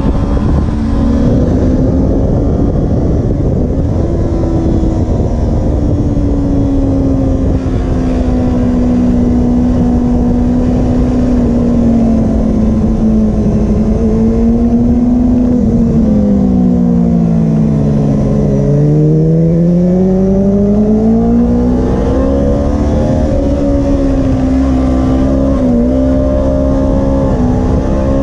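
Kawasaki Ninja 250R's parallel-twin engine running in third gear at fairly steady revs, with wind noise. About two-thirds through, the revs fall away for a couple of seconds, then climb back up.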